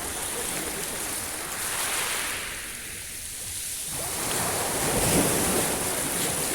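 Sea waves washing onto the shore: the surf eases off about halfway through, then swells again as the next wave comes in and breaks.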